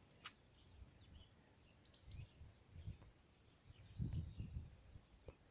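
Faint songbirds chirping, with short scattered calls throughout, under a few low thuds or rumbles, the loudest about four seconds in.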